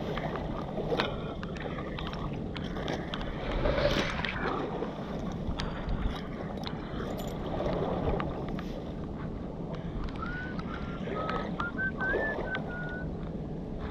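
Wind and water on the river foreshore with scattered clicks and scrapes of stones and shards being moved while searching the mud. A short, high wavering whistle sounds near the end.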